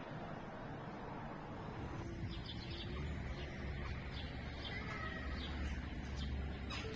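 Birds chirping: short high chirps, a few per second, starting about two seconds in, over a low steady hum.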